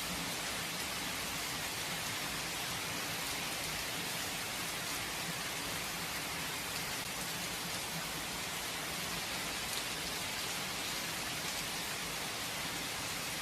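Steady rain falling without thunder, an even hiss of drops with a few individual drops pattering on a surface.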